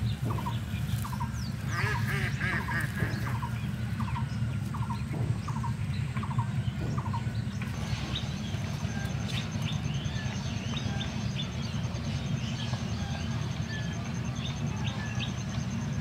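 Birds calling in a grassy field: a short call repeated about twice a second through the first half, with scattered higher chirps throughout. A steady low rumble runs underneath, and a fast, even, high-pitched ticking joins about halfway through.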